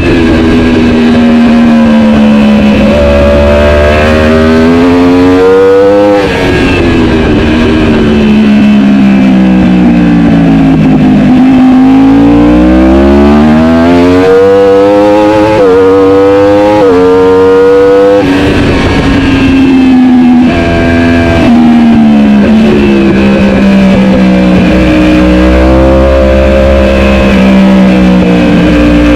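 Superbike engine at race pace, revving hard with rising pitch and quick shifts, then falling in pitch on long decelerations between the sharp climbs.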